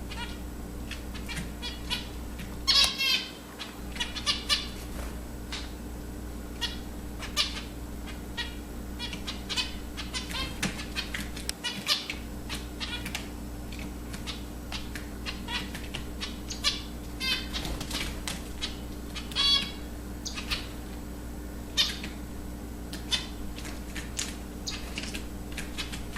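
Zebra finches calling: many short nasal beeping calls, scattered irregularly and sometimes several in quick succession, over a steady low hum.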